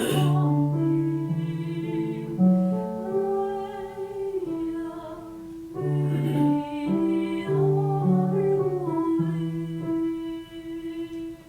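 Singing with instrumental accompaniment: a voice holding long, steady notes, with a short break about six seconds in, trailing off near the end.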